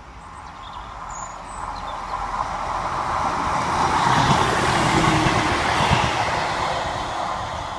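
Diesel multiple unit passing through at speed: wheel and engine noise swells as it approaches, is loudest about four to six seconds in as the cars go by, then fades as it moves away.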